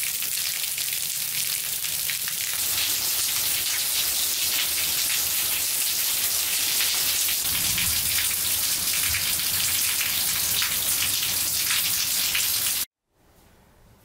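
Steady rain falling on a concrete walkway and on tree leaves, with many individual drops heard in it. It cuts off suddenly near the end, leaving quiet room tone.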